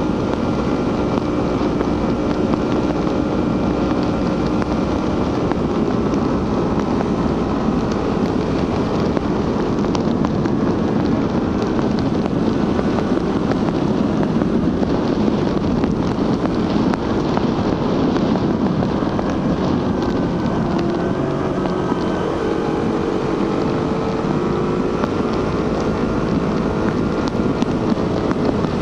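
Suzuki GSX-R150's single-cylinder engine and stock exhaust running at steady riding revs, with wind rushing over the microphone. The engine note dips and climbs again about two-thirds of the way through.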